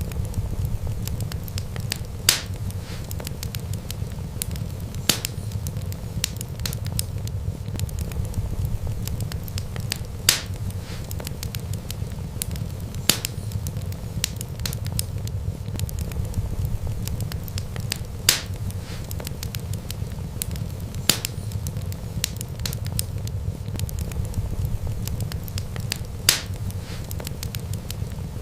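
Wood fire burning with a steady low rumble, small crackles throughout and a sharp louder pop every few seconds.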